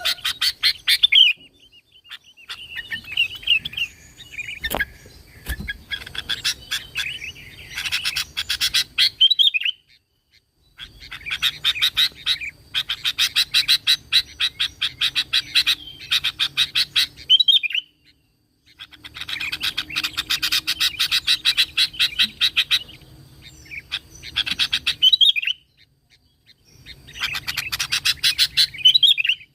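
Sooty-headed bulbul (kutilang) singing in long bouts of fast, repeated chattering notes, each bout ending in a short rising flourish. Brief pauses separate the bouts, so a new one starts about every seven seconds.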